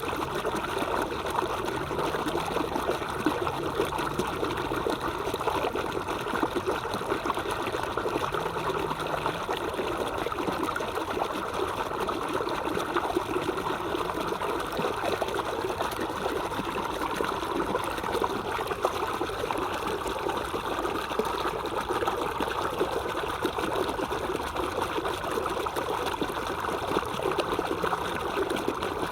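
Stream water trickling steadily over stones, a continuous even rush of running water.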